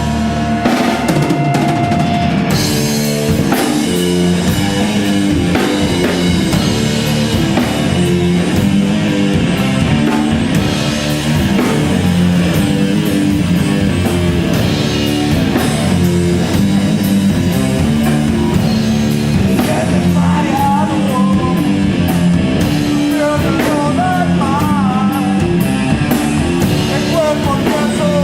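Live rock band playing loud, with a drum kit pounding out a driving beat under guitar and bass; a voice singing comes in over it in the later part.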